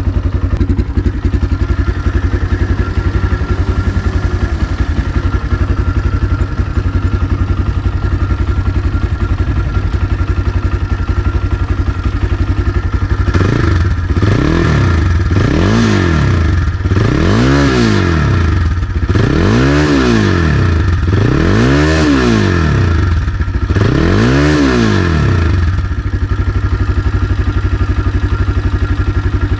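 Ranger Sahara 300 motorcycle's 279 cc liquid-cooled engine idling steadily, then revved in six separate blips from about halfway, each climbing and falling back in pitch, before it settles to idle again.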